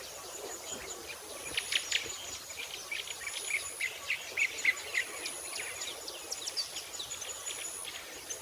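Many short, quick bird chirps over a steady, high insect trill, as in a warm outdoor natural setting; the chirping is busiest through the first half.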